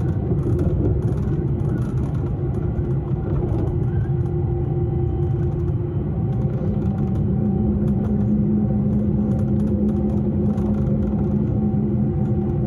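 Electric S-Bahn commuter train running on the rails, heard from aboard: a steady low rumble with a motor hum, and a second, lower hum joining about halfway through and holding steady.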